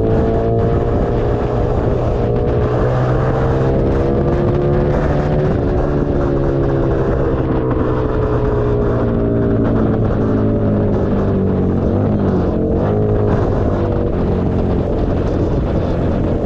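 Keeway SCR 250's V-twin engine running through a Racefit free-flow exhaust, its note slowly climbing, easing off, then dipping sharply about three-quarters through before picking back up.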